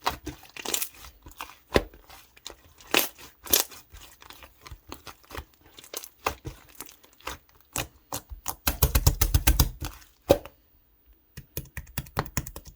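Clear foam ball slime, slime packed with small foam beads, being squeezed and pressed, giving a string of sharp crunchy crackles. A dense run of crackles comes about two-thirds of the way in, then a short pause, then quick small crackles again.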